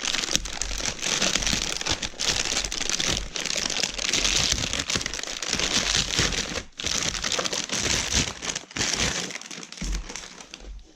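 Crinkling of the delivery packaging being handled and torn open to unbox a parcel of epoxy adhesive, a dense crackly rustle with a few short pauses that fades near the end.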